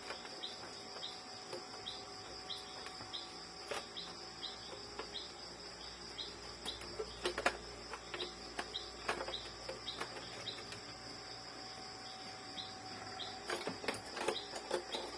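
Scattered light clicks and taps of a screwdriver and printer parts being handled while the carriage motor's screws are removed, over steady background chirping, short high chirps about twice a second, and a steady high hiss.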